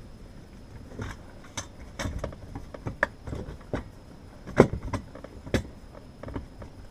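Irregular clicks, knocks and rustles of hands working a rolled-up piece of material tightly into a heater duct to stop it clunking, the sharpest knock a little past halfway.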